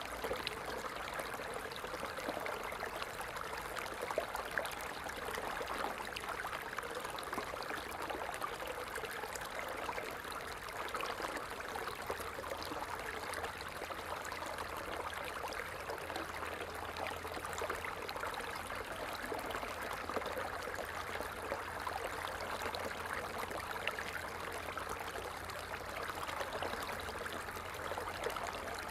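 Water falling and splashing steadily, a continuous even rush with small crackling splashes.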